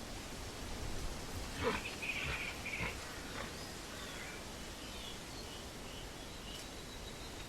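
Outdoor ambience: a steady low rumble of wind noise with small birds chirping, a few louder chirps about two seconds in.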